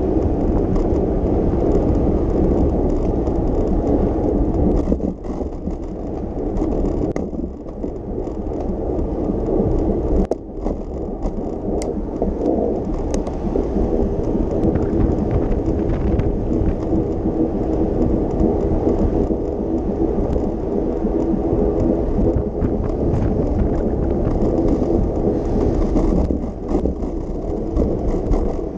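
Wind rumbling over the microphone of a camera on a moving bicycle, mixed with street and traffic noise. The sound is a steady low rush that drops briefly a few times.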